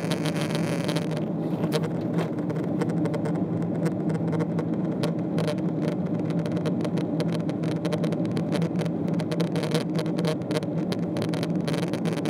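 Cabin noise of a Boeing 777-300ER in flight: a steady low drone from its GE90 engines and the airflow. About a second in, the high hiss thins out, leaving faint scattered clicks over the drone.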